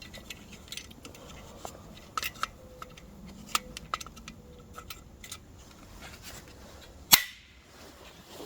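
Scattered light clicks and knocks, then a single loud sharp bang about seven seconds in.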